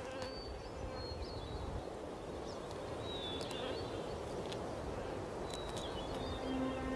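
Outdoor nest ambience: a steady low background hiss with faint, short, high-pitched bird chirps scattered throughout. Soft held music notes come in near the end.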